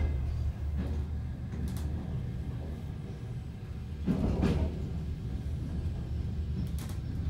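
Passenger train carriage running along the track: a steady low rumble with clusters of knocks from the wheels and running gear, loudest about four seconds in.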